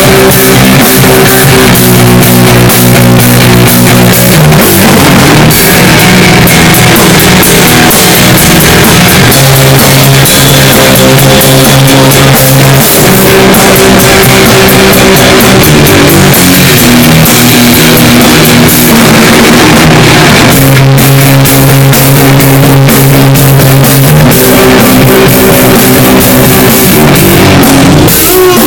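Loud rock music with distorted-sounding guitar chords and a steady drum kit beat, the chords changing every two to four seconds.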